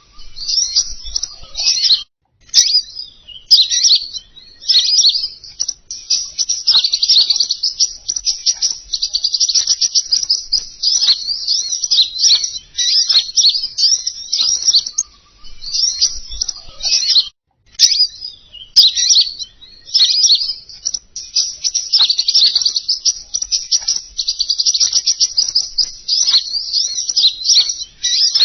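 Recorded song of the bird that Indonesian bird keepers call king konin, played as a lure call: fast, high twittering chatter in long runs. Short breaks come about two seconds in and again about seventeen seconds in, each followed by a couple of faint clicks.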